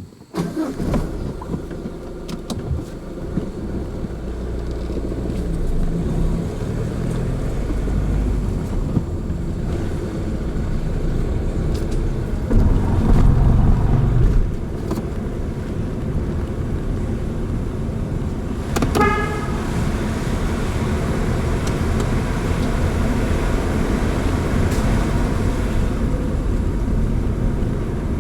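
Car driving along a road with a steady low rumble of engine and tyres, swelling for a couple of seconds in the middle. About two-thirds of the way through, a short horn toot sounds.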